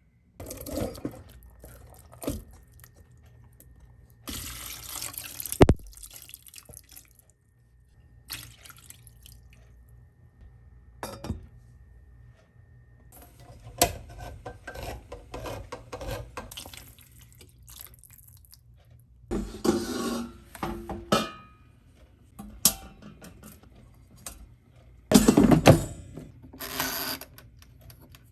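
Kitchen sink sounds: short runs of tap water with clinks and knocks of dishes and utensils, the loudest run of water near the end.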